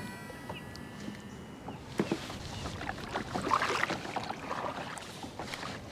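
Fishing reel whirring briefly as line pays out after a cast, fading within the first second and a half, followed by a sharp click and the soft, irregular water splashes and knocks of kayak paddling.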